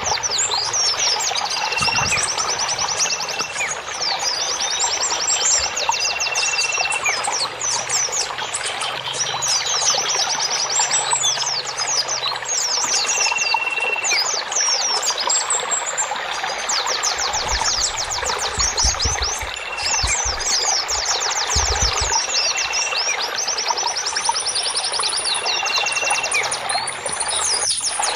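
Recorded chorus of many songbirds chirping and trilling, with fast high trills and a short, steady whistled note repeated every few seconds, over a constant rushing water-like noise. It is a bird-therapy track of the kind played to caged songbirds that have stopped singing or are stressed, to prompt them to sing.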